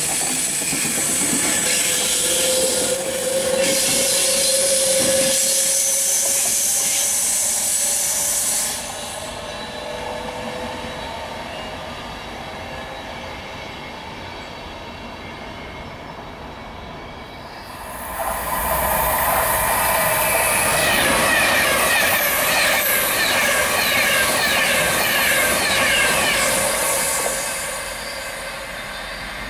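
Class 390 Pendolino electric trains running through at speed. The first is a loud rush with a slowly falling whine that drops away about 9 seconds in. After that comes quieter rail noise until a second Pendolino draws close about 18 seconds in and runs loud with high squealing tones, easing off near the end.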